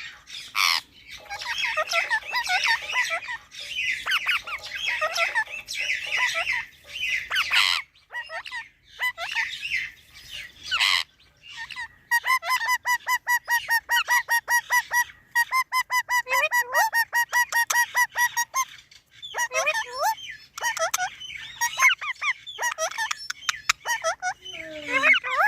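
Pet parrots calling: harsh squawks and chattering, then about halfway through a long run of quick, evenly repeated chirps, about five a second, followed by more scattered squawks.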